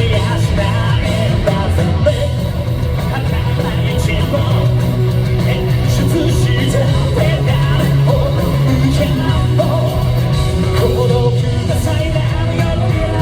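Japanese rock band playing live at full volume: a male lead vocal over electric guitars and a driving band, recorded loud from the audience.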